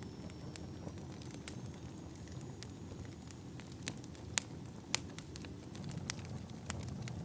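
Wood fire burning in a fireplace: a steady low rumble with scattered sharp crackles and pops, the loudest two a little past the middle. A faint high whistle sounds thinly in the first few seconds.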